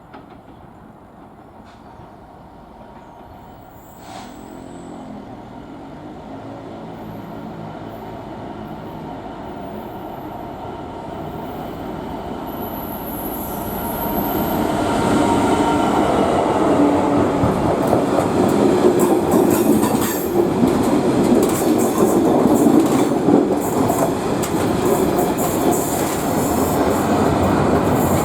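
A train approaching, growing steadily louder over roughly ten seconds, then running past close by with its wheels rumbling and clattering on the rails.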